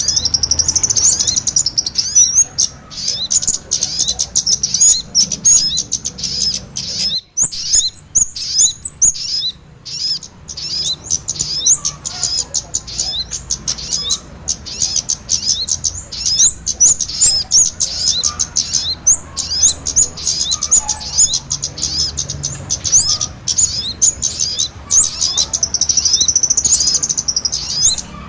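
Bird-lure recording of small songbirds, kemade calls mixed with sogon ontong calls: a dense run of rapid, high-pitched chirps and twitters, thinning out briefly about a quarter of the way in before picking up again.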